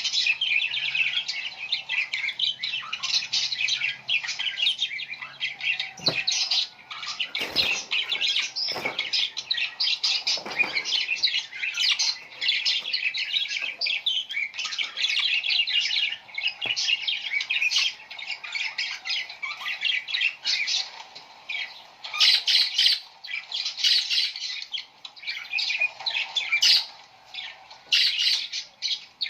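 Many small birds chirping and squawking without a break, their calls overlapping into a dense chatter.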